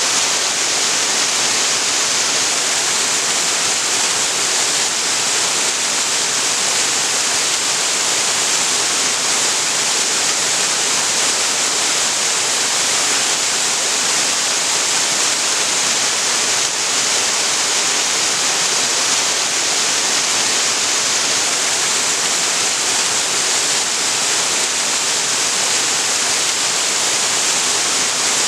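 Waterfall: a steady, even rush of falling water, unbroken and unchanging.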